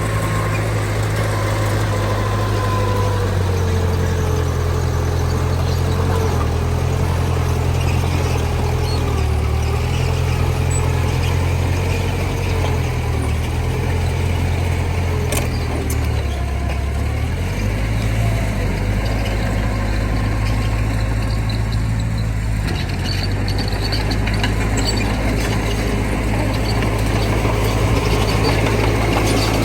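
Diesel engine of heavy earthmoving machinery running steadily with a loud low drone, a wavering whine over it through the first half. The engine note shifts about halfway through.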